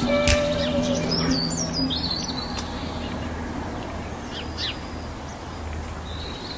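Birds chirping in short, high, gliding calls, while the last held notes of background music fade out over the first two seconds.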